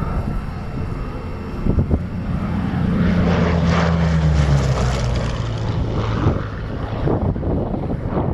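Hawker Sea Hurricane's Rolls-Royce Merlin engine on a flypast: the propeller drone grows louder, peaks midway, then drops in pitch and fades as the aircraft passes.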